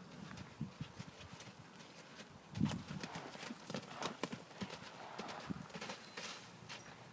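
Horse's hooves clopping in an irregular run of knocks, with a heavier thump about two and a half seconds in.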